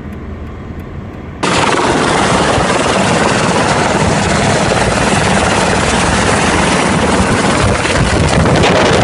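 Helicopter running, its rotor and engine noise loud and dense. A quieter low hum in the first second and a half gives way suddenly to the full loud noise.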